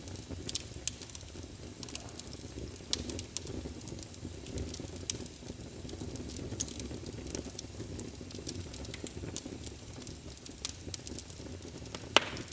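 Wood fire burning in a fireplace: a low, steady rumble of flames with irregular sharp crackles and pops, one louder pop near the end.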